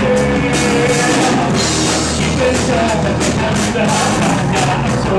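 Live rock band playing loudly, with drum kit hits keeping a steady beat under pitched instrument lines.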